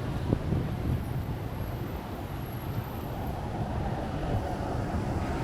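Wind buffeting the microphone with a fluttering low rumble, over a steady outdoor background noise.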